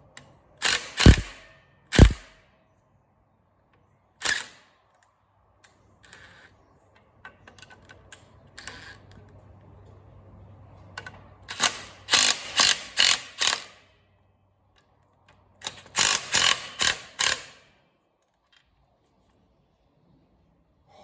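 Socket ratchet clicking in short runs of quick strokes while bolts on the tractor's clutch assembly are worked loose. Two sharp metal knocks come in the first two seconds and are the loudest sounds.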